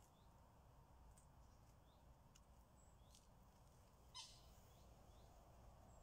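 Near silence with faint, scattered short chirps of small birds in the background, and one brief louder sound about four seconds in.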